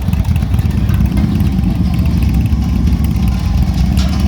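Motorcycle engines running at low speed: a loud, steady, low-pitched sound.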